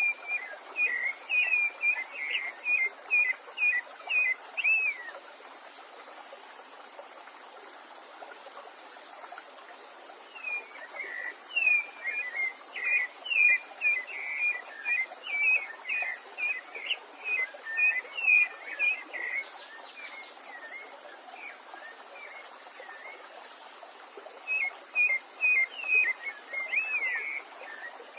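A songbird sings three bouts of quick, short whistled notes, with pauses between them, over the steady rush of a stream.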